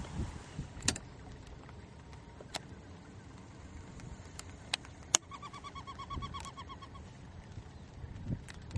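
Scattered sharp knocks and clicks, the loudest about five seconds in, followed right away by a bird's rapid series of about a dozen short call notes lasting under two seconds.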